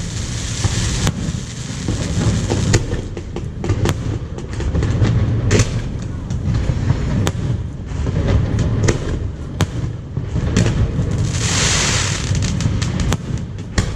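Fireworks display: a continuous low rumble of aerial shell bursts with many sharp cracks and pops, and a burst of crackling hiss near the end.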